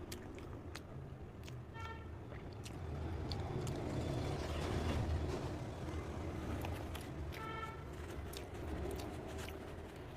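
A road vehicle passing nearby: its low rumble swells to a peak about halfway through and fades. Two short horn toots sound, about two seconds in and again about seven seconds in.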